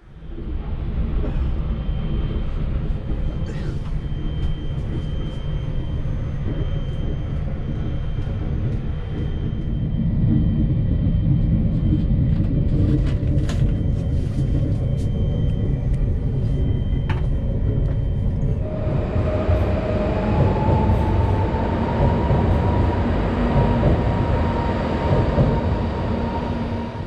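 Railway noise: a steady low rumble with a few light clicks, heard first inside a sleeping car. About two-thirds through it changes to a louder, brighter rail noise with an electric whine that rises in pitch and then holds steady.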